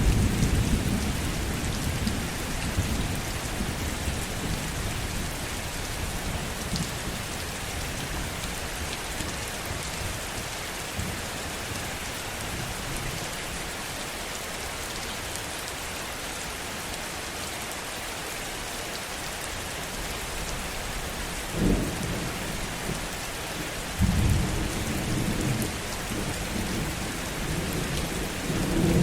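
Steady heavy rain with low, gentle thunder. A rumble fades away over the first few seconds, a sudden low clap comes about three quarters of the way through, and two more rumbles follow near the end.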